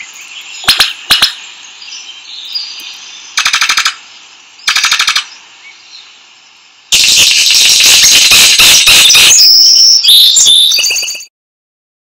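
Recorded bird calls over a steady high hiss: two sharp snaps about a second in, then two short rapid rattles, and from about seven seconds a loud, dense run of rattling calls that cuts off suddenly near the end.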